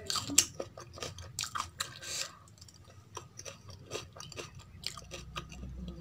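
A person chewing a handful of rice and kadhi eaten by hand, with wet smacking mouth clicks. The clicks come thick and loud in the first two seconds, then thinner and softer.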